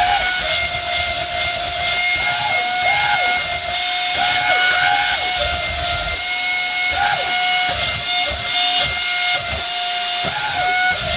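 Small electric motor of an RC toy whining at a steady high pitch, with small wavers in the pitch.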